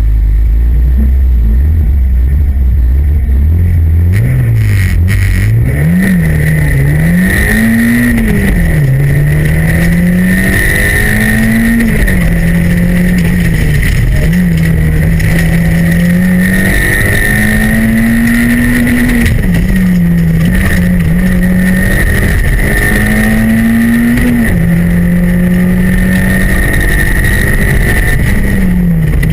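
Competition car's engine heard from inside the cabin, held at steady revs for about four seconds, then launching and revving up and down repeatedly as the car accelerates, shifts and brakes through slalom chicanes. A steady high whine runs along with it.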